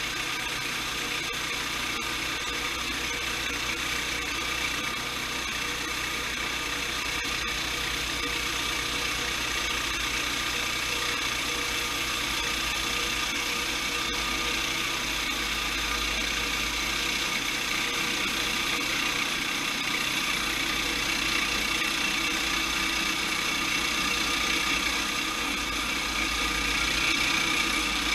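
Sawmill running steadily, its engine and saw making a continuous mechanical drone that grows a little louder near the end.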